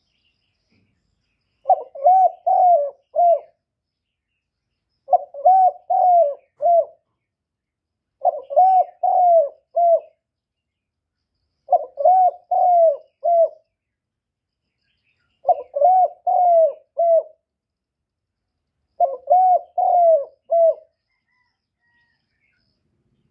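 Spotted dove cooing: six phrases, each of four or five quick coos, repeated about every three and a half seconds with silence between them.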